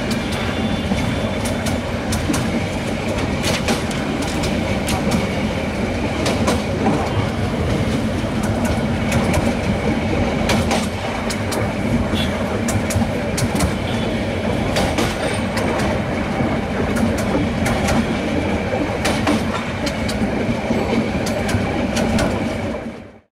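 Moving train heard from on board: a steady running rumble, with irregular sharp clicks of the wheels over the rail joints. It fades out near the end.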